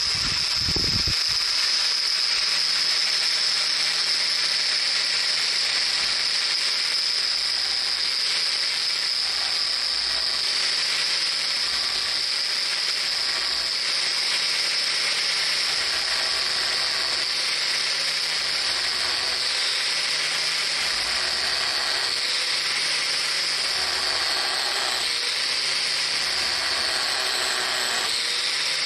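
Power-driven grinding wheel running steadily against a pipe, widening a groove first cut with a thin cut-off disc. It makes a continuous high whine, and its pitch wavers slightly in the second half as the work is moved back and forth.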